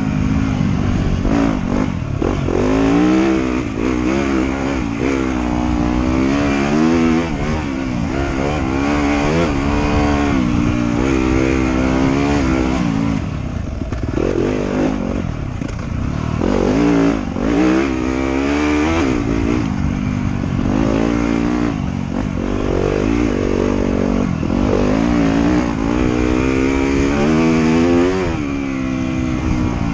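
Motorcycle engine revving up and down over and over as the rider works the throttle, its pitch rising and falling every second or two.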